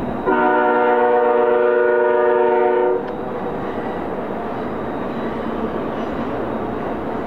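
Freight locomotive's air horn sounding one steady chord of several notes for about two and a half seconds, cutting off suddenly, over the steady rumble of the BNSF intermodal train rolling by, which continues after the horn stops.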